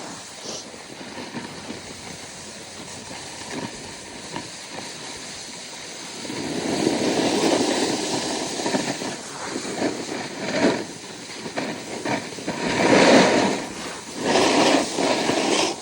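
Snowboard sliding and scraping over snow, with wind rushing on the microphone. The rush swells loudly a few times in the second half, as the board digs in harder.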